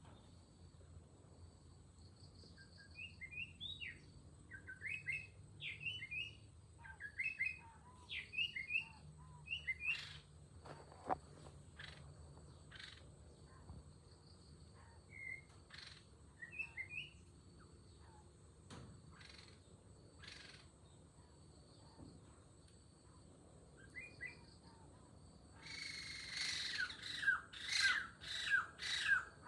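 Small birds chirping in short, quick phrases, with a louder rapid run of falling notes near the end. A steady high insect drone sits underneath, with a few sharp clicks.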